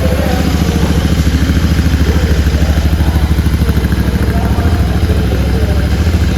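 Royal Enfield motorcycle engine idling steadily with an even, rhythmic exhaust pulse.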